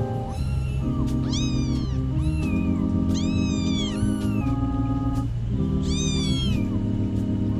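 A cat meowing repeatedly: several separate meows, each rising and then falling in pitch, over background music with sustained notes.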